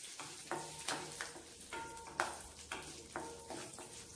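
Urad dal, green chillies and ginger frying in a little oil in a metal kadai, stirred with a wooden spatula. A faint sizzle runs under irregular scrapes and clicks.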